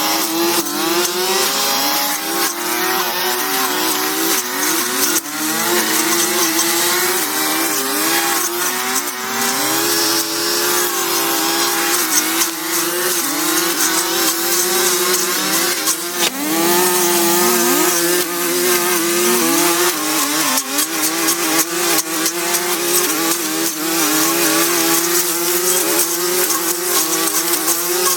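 Small engine running at high speed, its pitch dipping and recovering again and again as it takes load, with scattered clicks and knocks throughout.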